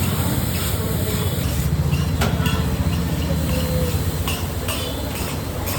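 Metal spatulas clinking and knocking against a hot iron tawa in irregular sharp strikes over a steady low rumble.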